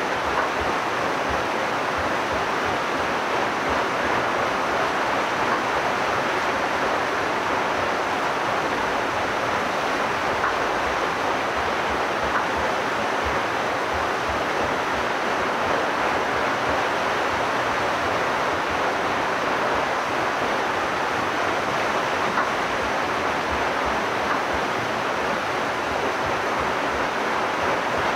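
Water pouring through a water mill's wheel and rushing down the mill stream: a steady, even rush.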